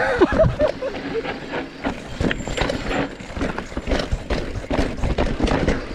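Mountain bike clattering over a rough trail: a dense, uneven run of knocks and rattles, with a short vocal sound right at the start.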